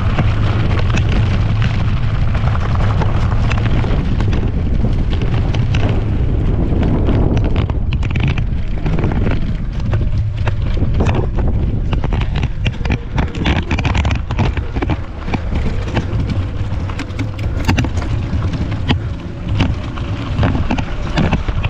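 Wind buffeting the microphone in a heavy, steady low rumble, with many short clicks and knocks throughout, more of them in the second half.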